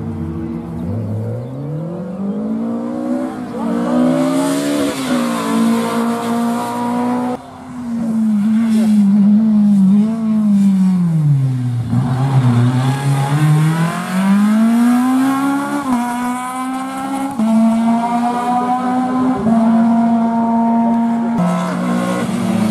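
Rally car engine accelerating hard and lifting off through a stage section. The pitch climbs through the gears and dips on braking, then is held steady for a few seconds near the end. The sound breaks off abruptly about seven seconds in and picks up again with another run.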